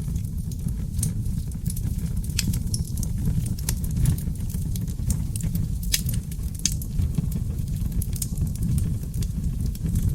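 Wood fire of seasoned oak logs burning, with a steady low rumble of flames under frequent crackles and sharp pops. A few of the pops are louder, around the middle.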